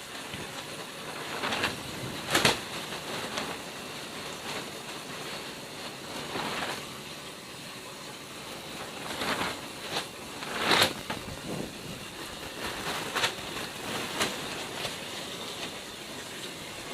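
Greenhouse plastic roof film rustling and flapping in strong wind, with sharp snaps of the sheet several times, loudest about two and a half seconds in and again near eleven seconds.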